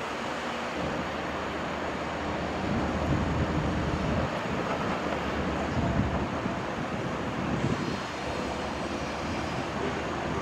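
Heavy diesel construction machinery running steadily, with a rumble that swells and eases, and wind on the microphone.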